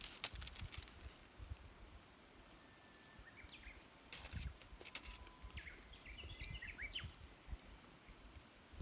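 Faint outdoor ambience with a few clicks, and short high bird chirps in two brief clusters around the middle.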